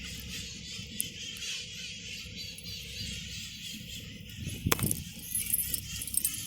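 A flock of feral parrots calling and chattering in a continuous high-pitched jumble, over a low city rumble, with one sharp click near the end.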